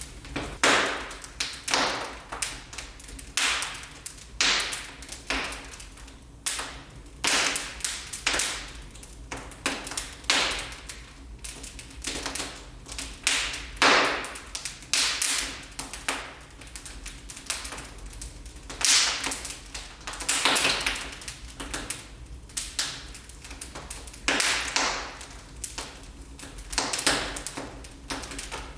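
Wood fire in a fireplace crackling, with irregular sharp snaps and pops about one or two a second.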